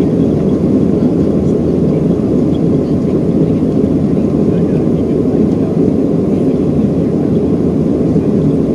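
Boeing 737-800 jet engines and airflow heard from inside the passenger cabin: a steady, loud, low roar.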